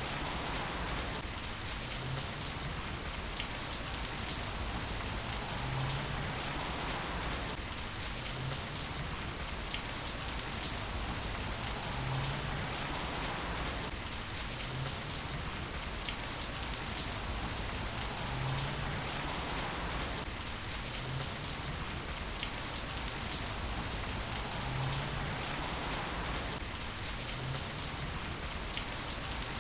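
Heavy rain falling steadily with scattered sharp drip ticks. The same few seconds of rain sound repeat about every six seconds, as in a looped rain recording.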